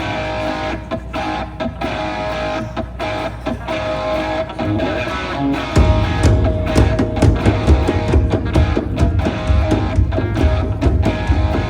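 Live rock band starting a song: an electric guitar plays a melody over a held drone note, then bass and drums come in together about six seconds in.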